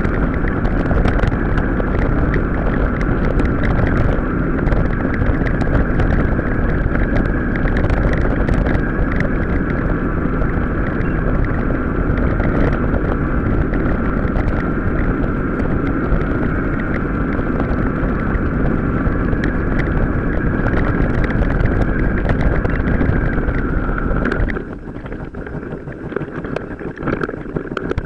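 Mountain-bike ride sound, sped up four to five times: wind buffeting the microphone and tyre rumble over rough ground, with many small rattles and a steady high whine. About three-quarters of the way through it drops suddenly to a quieter, thinner noise.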